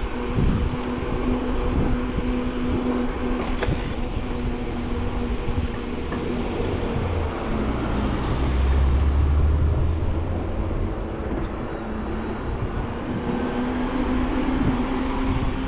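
Mountain bike riding noise heard from a mounted camera: wind on the microphone and tyre rumble, with a low rumble growing louder for a couple of seconds in the middle. A steady hum runs underneath, drops out midway and comes back near the end.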